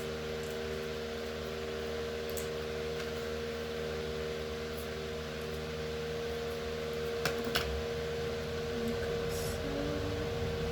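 Electric fan running with a steady hum, with two light clicks about seven seconds in.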